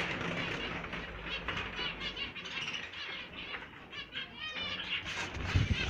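Small cage birds chirping and fluttering in a breeding aviary, many short calls overlapping, with a quick run of chirps about four and a half seconds in and some low bumping near the end.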